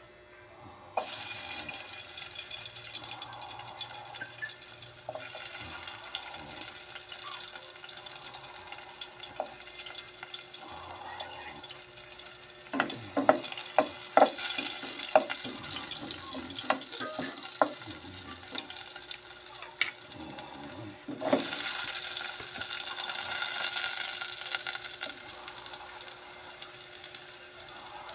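Hot cooking oil sizzling in a pot as garlic and then chopped onion go in. The hiss starts suddenly about a second in, a run of sharp pops and clicks comes about halfway as the garlic is added, and the sizzle grows louder near the three-quarter mark when the onion goes in.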